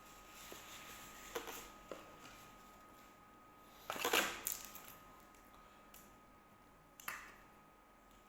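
Scattered rustles and light knocks of things being handled at the table, the loudest a longer rustle about four seconds in and a sharp knock about seven seconds in, over a faint steady high hum.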